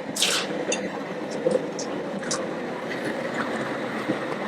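Steady rushing of a propane burner firing under a large crawfish boil pot as the seasoned water is brought back to the boil, with a brief hiss about a quarter second in and a few small clicks.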